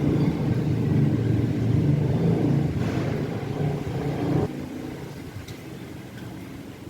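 A motor vehicle engine running close by, low and steady, dropping away abruptly about four and a half seconds in, leaving quieter background noise.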